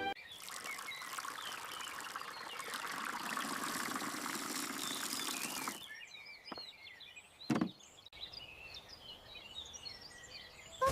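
A steady rushing hiss, like pouring or running water, for about six seconds, cutting off abruptly. Then faint birds chirping, with a single dull thump.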